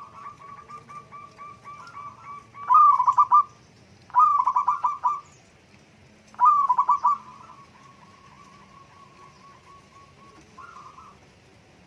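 Zebra dove (perkutut) song: soft runs of quick staccato coos, broken by three loud bursts of rapid, rolling coos, each about a second long, then a softer run again.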